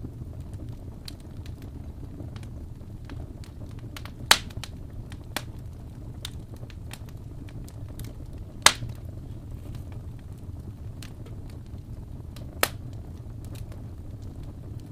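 Wood fire in a fireplace crackling, with scattered small snaps and three loud pops about four seconds apart over a low steady rumble.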